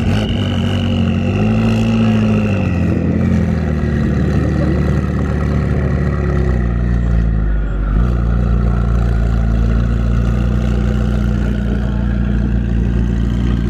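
Car engine running, its pitch swelling up and back down about two seconds in, then settling into a steadier, lower drone from about eight seconds in.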